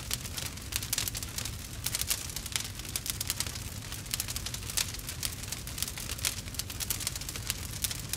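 Campfire burning, crackling and popping with many irregular sharp crackles over a low steady rumble.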